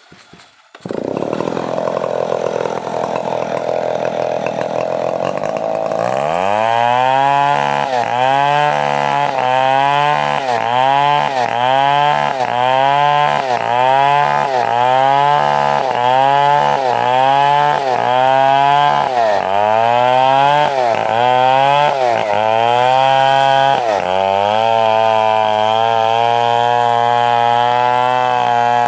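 Stihl 070 two-stroke chainsaw running hard through a young coconut-palm trunk. It comes in suddenly about a second in. Its pitch then dips and recovers about once a second as the cut loads the engine, and it runs steadily again near the end.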